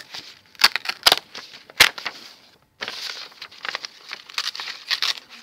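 A sheet of A4 paper being handled and torn along a folded crease: irregular crackling and rustling with a few sharper snaps, pausing briefly about halfway through.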